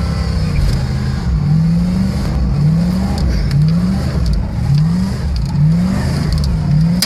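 Vehicle engine revved in repeated pulses, its pitch climbing about once a second, six times over, as the gas is worked to free the stuck vehicle.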